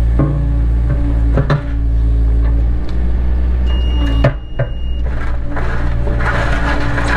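Cat 307 excavator's diesel engine running steadily with a few sharp knocks, then cutting out abruptly about four seconds in. Crunching and scraping noise builds near the end.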